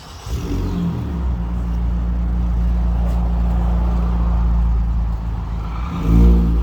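The 2013 Ford Fusion's 2.5-litre four-cylinder engine starts up through a muffler-deleted exhaust and settles into a steady, deep idle. It is revved once, briefly, near the end.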